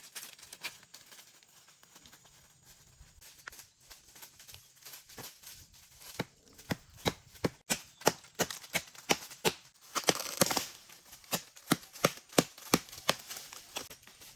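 Hammer blows in a quick, uneven run, about two to three a second, louder from about six seconds in, with a short hiss about ten seconds in.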